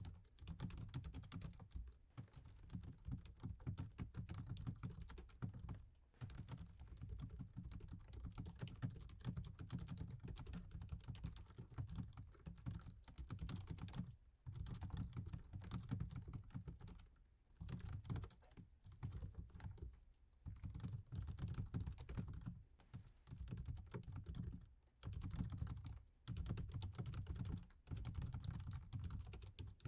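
Fast, continuous typing on a laptop keyboard, a dense run of key clicks broken by several short pauses.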